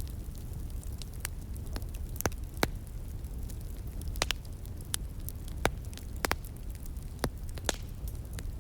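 Wood fire crackling, with irregular sharp pops every second or so over a steady low rush, the sound of a stream flowing in the background.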